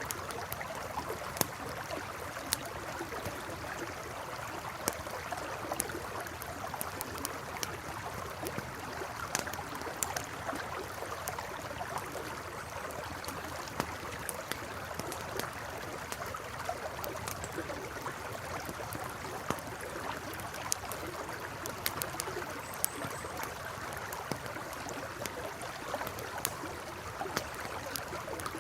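A river flowing steadily, with a campfire crackling in scattered sharp pops over it.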